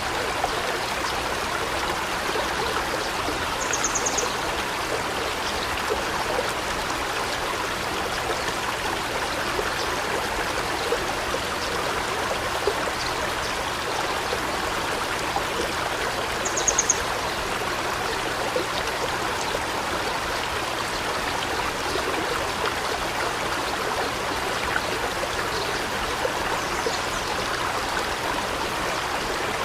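Forest river flowing steadily, an even rush and babble of water. Twice, a few seconds in and again just past the middle, a bird gives a short, rapid, high trill.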